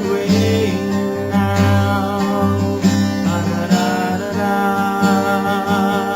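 Music: a strummed acoustic guitar playing steady chords in a soft-rock song.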